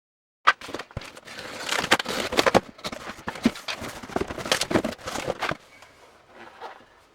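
Parcel of motorcycle parts being unpacked: a busy crackling rustle of packaging with sharp clicks, starting about half a second in and settling to a faint rustle near the end.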